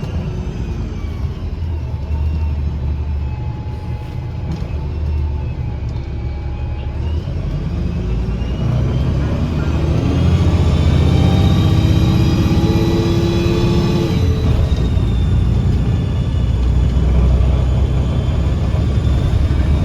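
Engine and Voith transmission of a 2009 Gillig BRT 40-foot transit bus under acceleration: a low rumble with a sharp whistling whine that climbs in pitch, drops abruptly about two-thirds of the way through, then carries on steady.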